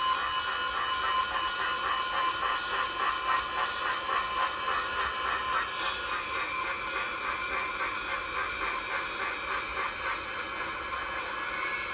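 Railroad train sounds: a steady cluster of ringing high tones with a rapid pulsing beat, about four a second, that fades somewhat after six seconds.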